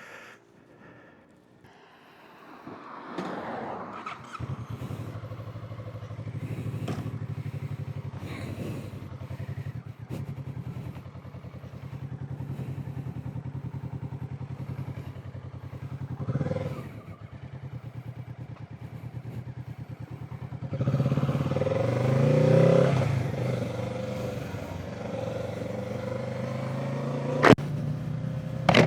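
Kawasaki Z650 parallel-twin motorcycle engine, heard from the rider's camera: it comes in about four seconds in and runs steadily, then revs up in rising bursts around twenty seconds in. Two sharp clicks sound near the end.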